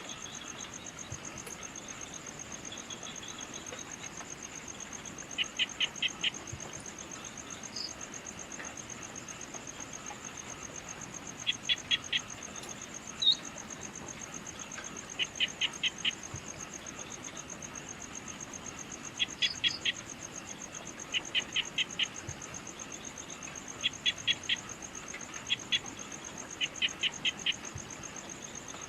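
Evening insect chorus: a continuous high, fast-pulsed trill. Over it, short chirps come in quick groups of four or five every two or three seconds, with a few single higher chirps in between.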